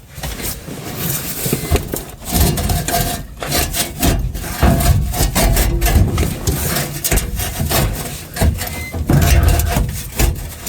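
Irregular scraping, rubbing and knocking of metal parts being worked and shifted by hand.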